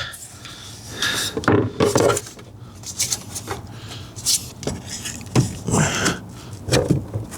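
Irregular clicks and light clattering of hard plastic and metal parts as a wiring harness is worked into a car's steering column cover.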